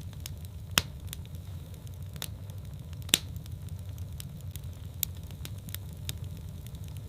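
Wood fire burning in a fireplace: a steady low rumble of the flames with sharp crackles and pops at irregular intervals, the loudest pops about a second in and about three seconds in.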